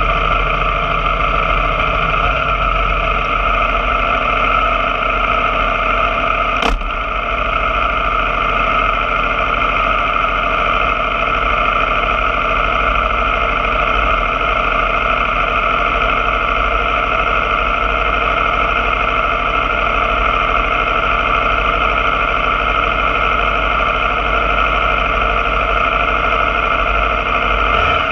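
Aprilia Tuono motorcycle engine running at a steady, unchanging pitch, with one sharp click about seven seconds in.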